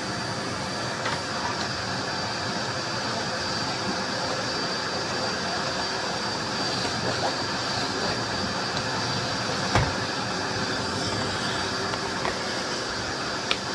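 Miele Blizzard CX1 bagless vacuum cleaner running steadily with a high whine, with a few clicks and one sharp knock about ten seconds in.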